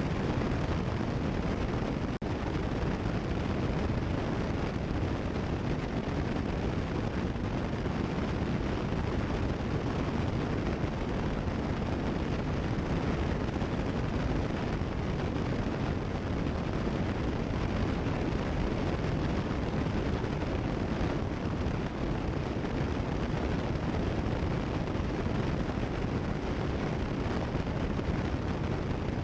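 Cessna 172 Skyhawk engine and propeller drone in flight, heard through the cockpit headset intercom feed as a steady, even rumble. There is a brief dropout about two seconds in.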